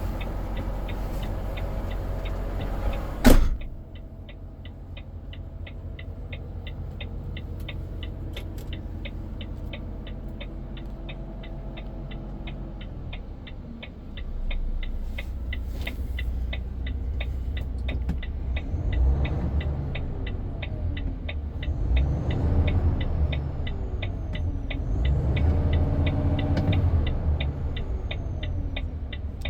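Volvo FH 500 truck's 13-litre six-cylinder diesel running, with a loud slam about three seconds in. Steady rapid clicking follows, and from about halfway the engine grows louder in repeated surges.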